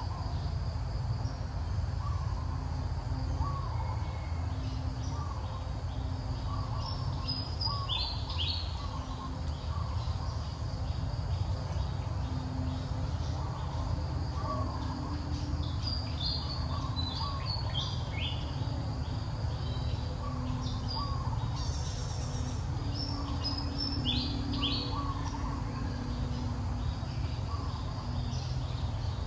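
Birds calling: a short note repeating about once a second, with bursts of higher chirps every seven or eight seconds, over a steady low rumble.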